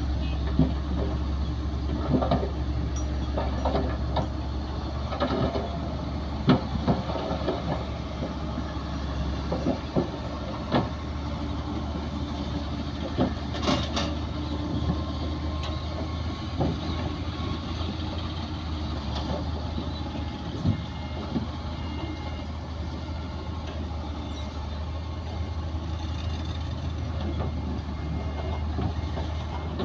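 Bulldozer's heavy diesel engine running steadily with a deep drone, broken by scattered short clanks and knocks.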